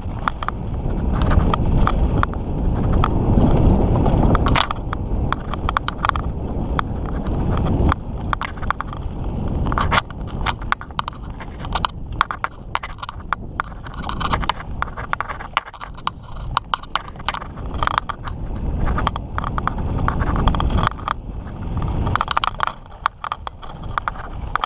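Mountain bike riding over a rough dirt trail: steady rolling noise from the tyres with frequent rattles and knocks as the bike jolts over bumps.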